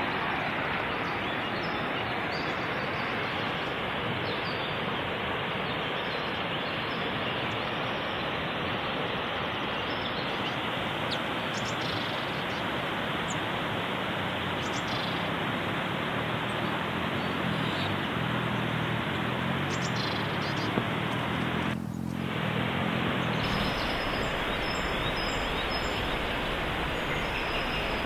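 River water rushing steadily over rocks and rapids, with a few faint bird chirps.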